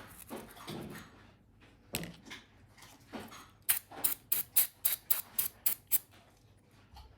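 Workshop handling sounds during cleanup of the quad's parts: a few scattered knocks and rustles, then a quick run of about nine sharp scraping strokes, roughly four a second, stopping about a second before the end.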